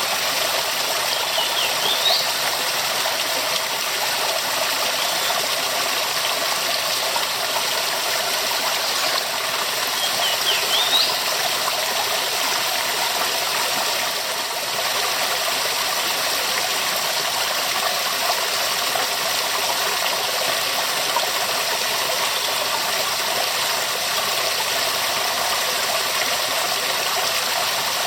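Waterfall rushing steadily, a constant full wash of falling water.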